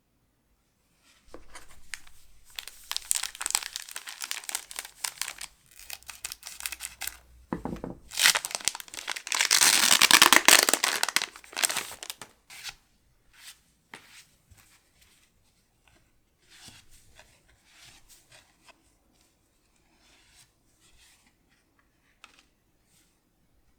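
Foil booster-pack wrapper being torn open and crinkled by hand, with a loud tearing rip about halfway through. Then comes quieter, scattered rustling as the wrapper and cards are handled.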